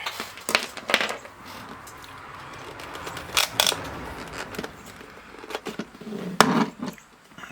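Plastic clicks and knocks from a handheld Cen-Tech P37772 digital multimeter being handled as its case is taken apart, with a soft rubbing sound in the middle and a louder knock near the end.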